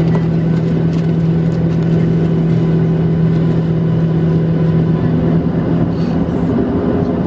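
Steady engine and cabin hum inside a Southwest Boeing 737-700, from its CFM56-7B engines. A low drone fades about five seconds in while a slightly higher tone comes up.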